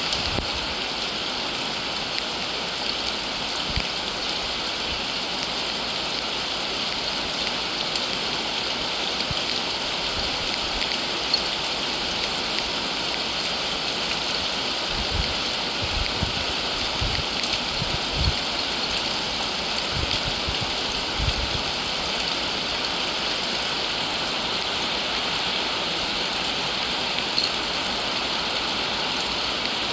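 Steady rain falling, an even hiss of many drops. A few short low thumps come through in the middle.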